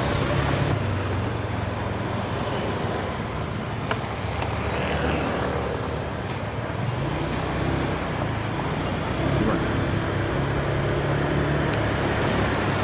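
Honda Click 125i scooter's single-cylinder engine running under way, amid a steady wash of city traffic and road noise.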